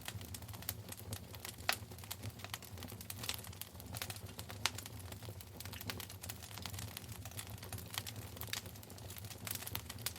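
Wood fire in a fireplace crackling: irregular sharp pops and snaps, a few louder ones, over a steady low rumble of the burning fire.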